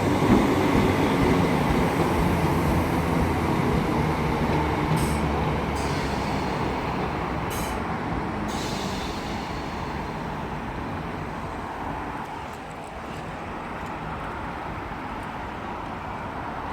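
Class 319 electric multiple unit running into the platform and slowing to a stop, its rumble gradually fading, with a few short hisses partway through.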